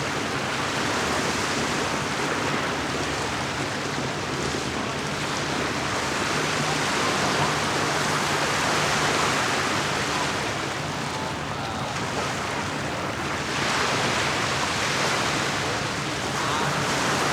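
Lake water washing and lapping at the shore, a steady wash that swells and eases every few seconds, with a faint low steady hum underneath.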